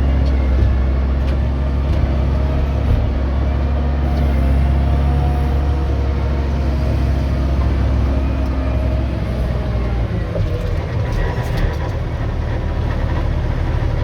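Diesel engine of a logging machine running steadily under the operator, a heavy low hum that eases off about ten seconds in.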